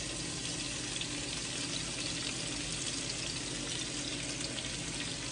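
Flour-coated beef tips sizzling steadily in hot grease as they are dropped in to brown, with a few faint pops.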